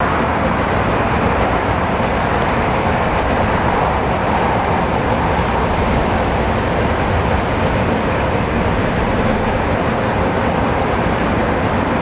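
Jet airliner engines on approach to landing: a steady roar with a faint whine.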